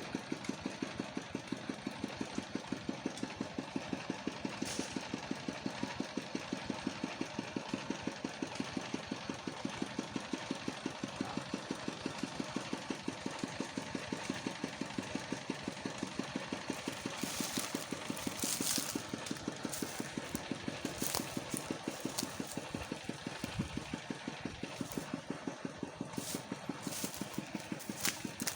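A small engine running steadily with a regular, rhythmic pulse of a few beats a second. Sharp clicks and rustles come in over the second half.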